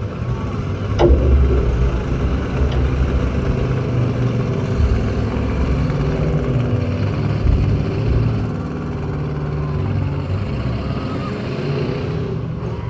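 Demolition derby car's engine running with a loud, uneven low rumble, heard close up on the car. There is a sharp bang about a second in.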